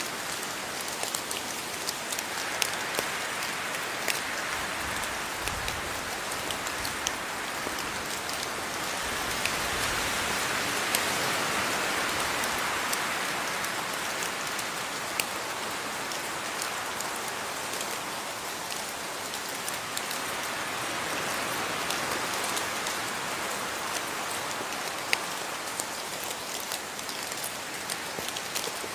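Steady rain falling, a dense hiss with many sharp individual drops ticking on a hard surface close by; the rain swells a little about a third of the way through, then eases back.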